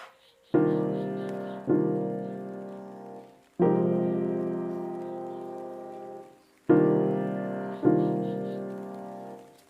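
Background piano music: slow chords, five in all, each struck and left to ring and fade away.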